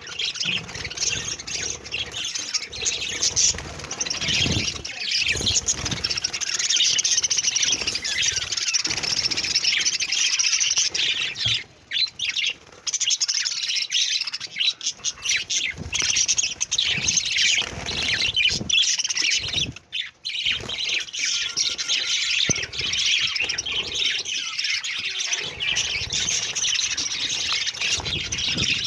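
A group of budgerigars chattering, with a dense run of quick chirps, squawks and warbles that hardly lets up, broken by two brief pauses.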